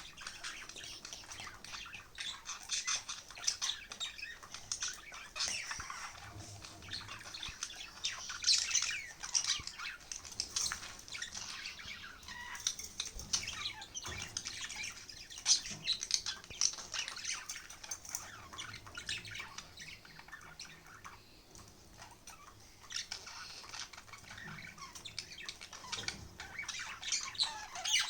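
Several budgerigars chattering, a continuous stream of short chirps and squawks.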